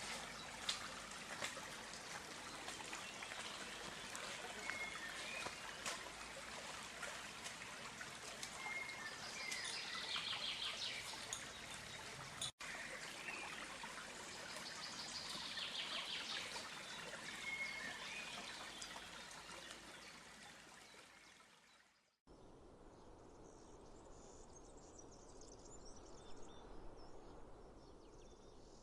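Stream water running, with a bird call repeating every five seconds or so above it. Shortly after 20 seconds this fades out and gives way to a quieter outdoor ambience with faint high bird chirps.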